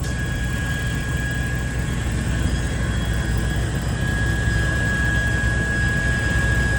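Old tow truck's engine running steadily at low revs, an even low rumble with a thin steady whine above it that grows stronger in the second half.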